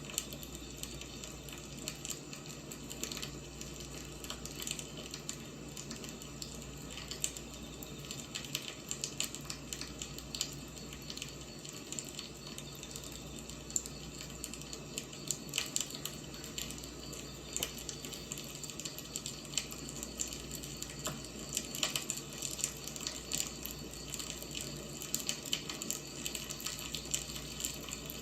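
A wood fire burning, with a steady hiss and frequent irregular crackles and pops.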